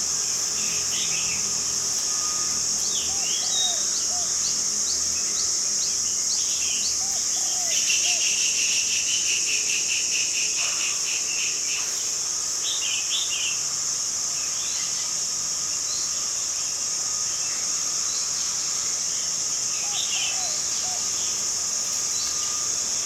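A steady, high-pitched drone of insects, with bird chirps and short whistles scattered throughout and a fast pulsing trill about a third of the way in.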